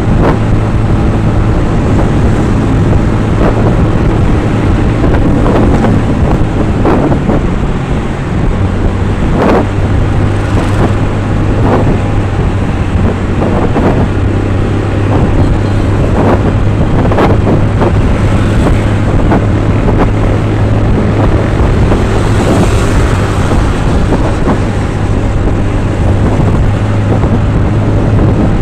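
Motor vehicle running steadily on the move: a constant low engine hum under road and wind noise, with scattered brief knocks.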